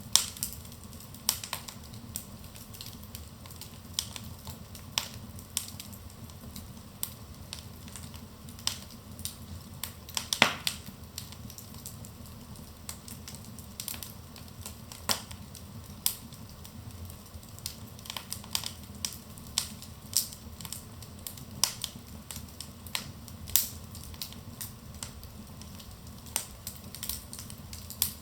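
Wood fire burning in a fireplace, with a steady low rumble of the flames and frequent irregular crackles and pops from the burning logs.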